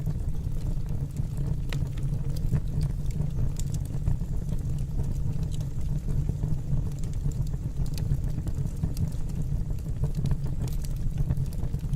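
Fire burning in a fireplace: a steady low rumble with irregular, scattered sharp crackles and pops.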